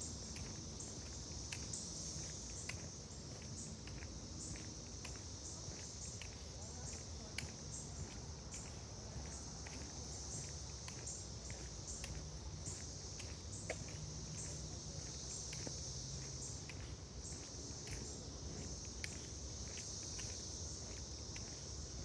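Steady high-pitched chorus of insects, with the walker's footsteps on the trail giving irregular soft clicks.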